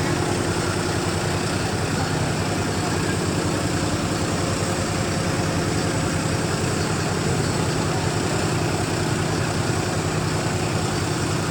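Diesel tractor engine running steadily at an even speed, with no revving up or down.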